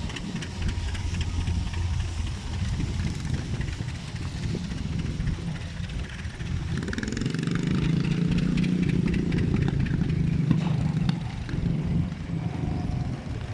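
An engine running steadily, with a deeper note early on. From about six seconds in, a louder, slightly higher engine note rises briefly and holds until about eleven seconds in.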